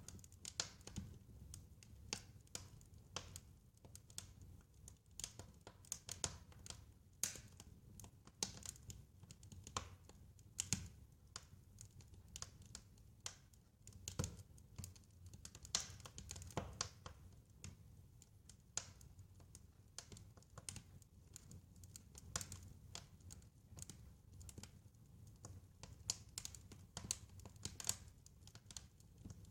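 Wood fire crackling: irregular snaps and pops of varying strength over a faint low rumble.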